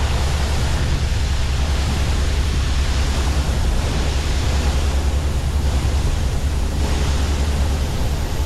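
Heavy farm machinery's diesel engine running steadily, a low hum under a constant rush of noise.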